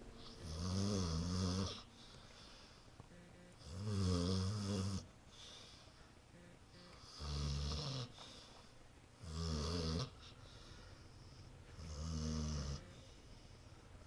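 A dog snoring: five rasping snores, one about every two and a half seconds, with quiet between them.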